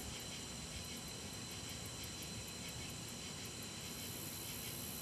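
Steady outdoor late-summer ambience: a chorus of insects, with a high steady trill and a faint high pulsing about four times a second that stops about three-quarters of the way in, over a steady hiss. No thunder is heard in this stretch.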